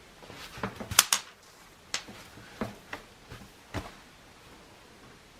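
A string of about eight sharp taps and clicks from craft tools and paper being handled on a work table. The loudest comes about a second in, and they stop after about four seconds.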